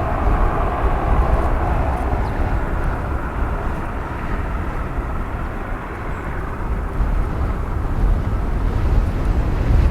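An airliner's engines passing close by: a steady, loud rumble with a brighter rushing tone that fades after the first two or three seconds.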